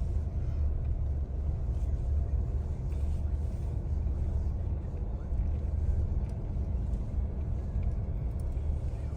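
Car driving, a steady low road rumble heard from inside the cabin.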